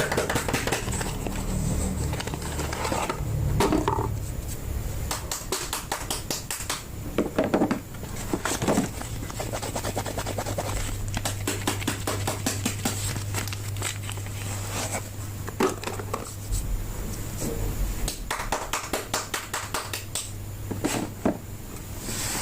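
Hands unwrapping and handling bars of soap: packaging crinkling and scratching, with many short taps and clicks scattered irregularly throughout.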